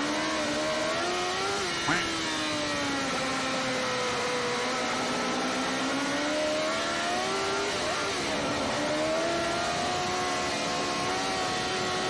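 Sport bike engine heard from an onboard camera, its pitch rising and falling as the rider accelerates and rolls off, with a short sharp click about two seconds in.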